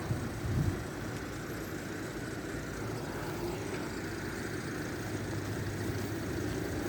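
Steady low rumble of a vehicle engine running, with a faint knock or two near the start.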